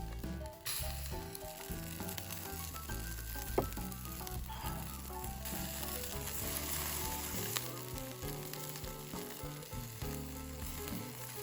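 Chicken skewers sizzling over a wood fire, a steady hiss that grows louder just under a second in and eases off about halfway through, with background music underneath.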